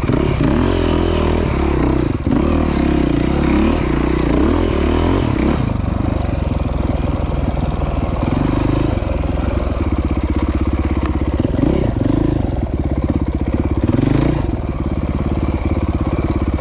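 Dirt bike engine running, its revs rising and falling several times over a steady idle.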